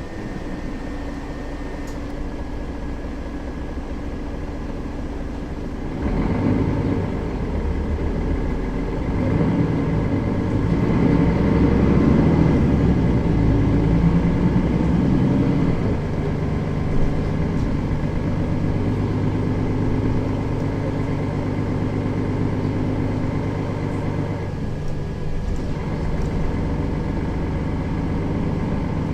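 Mercedes-Benz Citaro facelift city bus's engine and running noise, heard inside the bus. It gets louder about six seconds in as the bus pulls harder, then settles to a steadier hum after about sixteen seconds.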